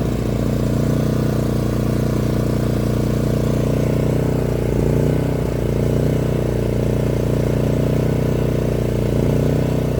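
Champion 5500-watt inverter generator's 224cc single-cylinder engine running at a steady speed with eco mode switched off.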